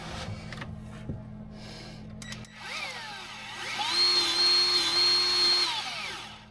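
Battery-powered Milwaukee grease gun: its motor whines up about two and a half seconds in, runs steadily at a high pitch for about two seconds, then winds down, pumping grease into a Zerk fitting on the U-joint. Before it, faint handling clicks.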